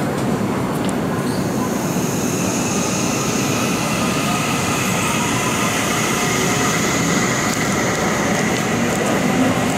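Seibu Railway electric train pulling out along the platform: its wheels rumble on the rails, and a high, steady whine from its motors sets in about two seconds in.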